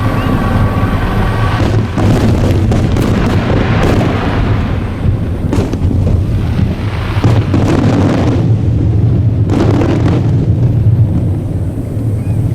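Aerial fireworks shells bursting in rapid succession, a string of sharp bangs over a continuous low rumble.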